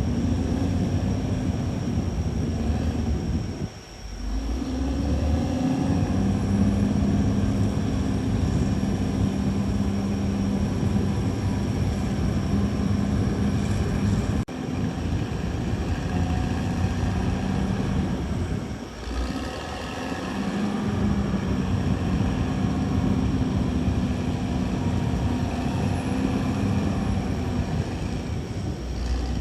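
CAT D6R XL bulldozer's diesel engine running steadily under work, its note dropping away briefly about four seconds in and again near twenty seconds in before picking back up.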